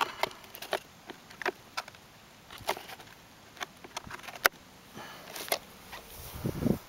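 A series of irregular sharp clicks and taps, then a short low rumble near the end.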